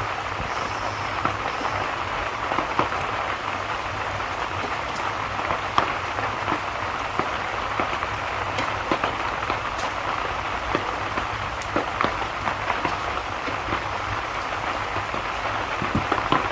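Steady rain falling, an even hiss with many scattered sharp ticks throughout.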